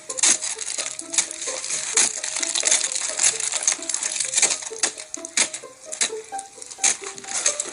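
Freezing rain ticking and clattering on hard surfaces: a steady hiss with many sharp, irregular clicks of ice striking.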